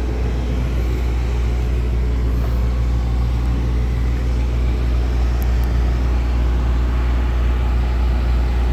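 Heavy diesel truck engine idling: a steady, loud low drone.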